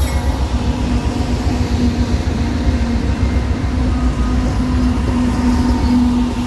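Diesel-electric freight locomotives passing close by: a loud, steady engine rumble with a pulsing low drone.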